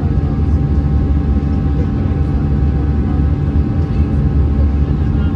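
Steady low cabin drone inside an Airbus A320-214 with its CFM56 engines running, a constant rumble with a few steady hum tones over it.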